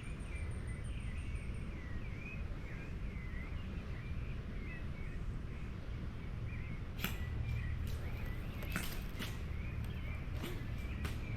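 Wind rumbling on the microphone outdoors, with a continuous run of short, high, repeated chirps. A few sharp clicks come in the second half.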